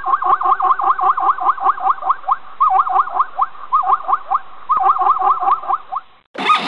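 Zebra calling: a rapid run of short, rising yips, about five a second, with a couple of brief breaks, stopping about six seconds in.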